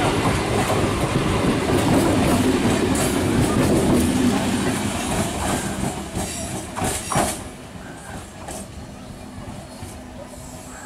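Electric multiple unit (EMU) local train passing close by: a steady rumble of wheels on rails with clickety-clack over the joints. A few sharp clacks come as the last coach goes by about seven seconds in, then the sound drops away as the train recedes.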